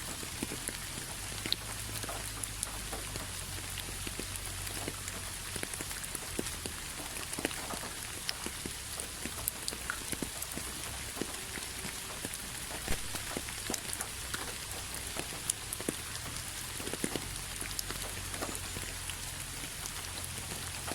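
Steady rain: a constant hiss with many separate drops striking close by, over a low steady rumble.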